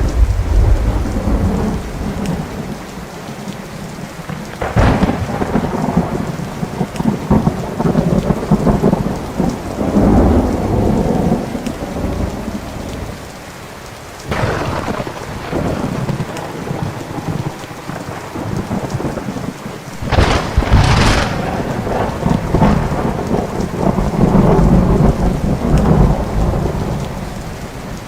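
Thunderstorm: sharp thunderclaps about 5 s in, near the middle and twice close together about two-thirds through, each followed by long rolling rumbles, over steady rain.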